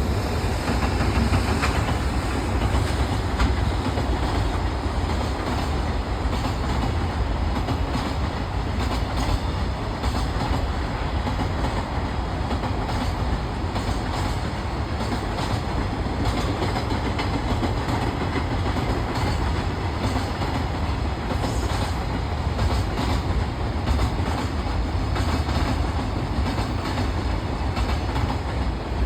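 Freight train passing through a station: a long, steady run of wagon wheel noise on the rails, loud and unbroken.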